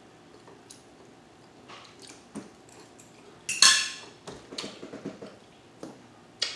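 Cutlery clinking against a plate during a meal: a few separate sharp strikes, the loudest about three and a half seconds in with a brief ring.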